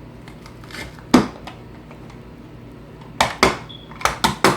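Sharp clacks and knocks from a garlic press being worked against kitchen ware: one knock about a second in, then a quick run of five in the last second and a half.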